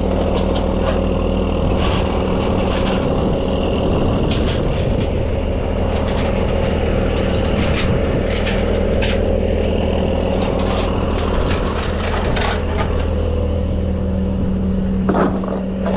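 Heavy diesel truck engine idling steadily, with scattered metallic clinks and knocks over it and a sharper knock near the end.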